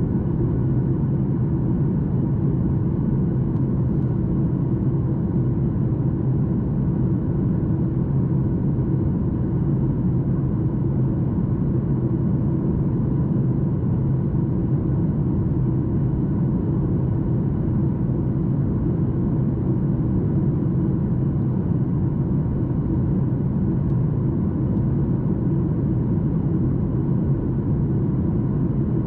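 Steady cabin drone inside a Boeing 737 MAX 8: its CFM LEAP-1B engines running evenly, a deep rumble with a faint steady hum, unchanged throughout.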